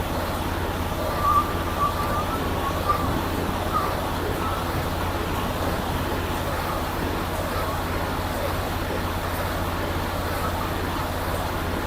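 Steady vehicle and traffic noise with a deep, continuous low hum, and a few faint wavering sounds in the first few seconds.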